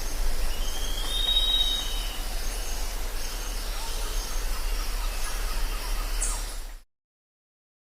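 Jungle ambience: a steady wash of background noise with faint high calls over a low hum, and one drawn-out whistled bird call that rises and then holds about a second in. The sound cuts off abruptly near the end.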